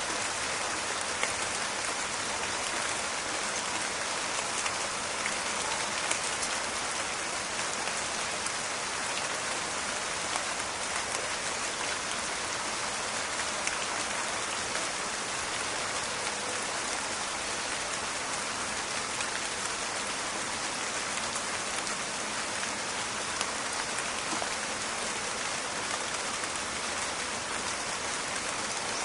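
Steady rain falling, an even hiss peppered with many small crackling drop impacts.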